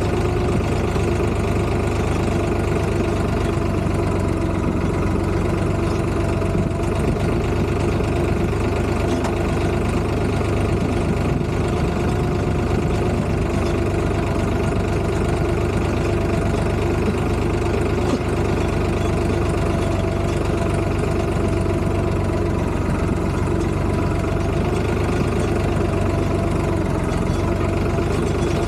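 Farm tractor engine running steadily at a constant speed, with no change in pitch or level.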